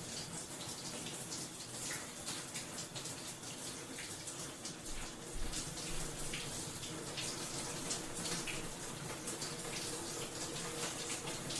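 Bathroom shower running, its spray splashing steadily in a small tiled room with irregular splatters. A brief low bump comes about five seconds in.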